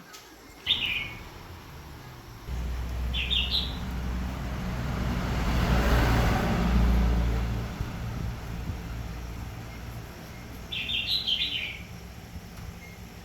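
Small birds chirping in three short bursts, and a motor vehicle passing in the middle, its noise swelling and then fading away.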